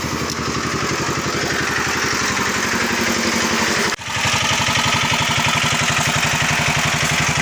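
Tractor engine running steadily with an even, rapid firing pulse. There is a brief dip about four seconds in, and after it the engine runs a little louder.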